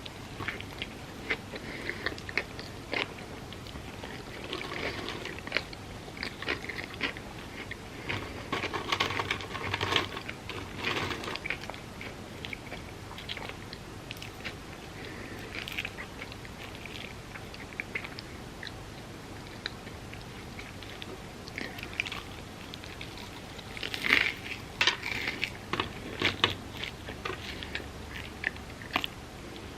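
Close-miked eating of crispy fried food: crunchy bites and moist chewing clicks. Louder bursts of crunching come about five seconds in, again around nine to eleven seconds, and again around twenty-five seconds.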